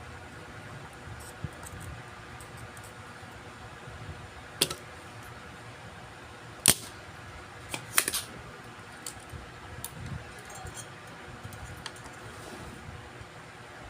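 A few sharp clicks and taps from tools or parts handled on a workbench, over a steady low hum. The three loudest clicks come about a third, half and two thirds of the way through.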